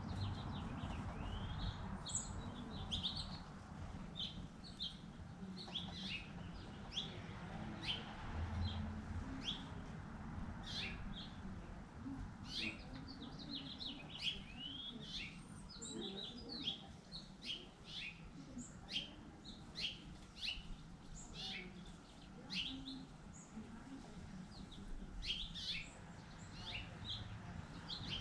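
Songbirds chirping and calling: a steady stream of short high chirps and quick downward-sweeping notes, over a steady low background noise.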